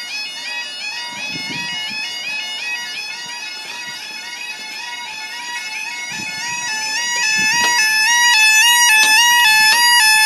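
UK level crossing audible warning alarm (yodel alarm) sounding, a reedy two-tone warble alternating between two pitches a few times a second, growing louder about seven seconds in. It is the warning that the crossing's barriers are lowering for an approaching train.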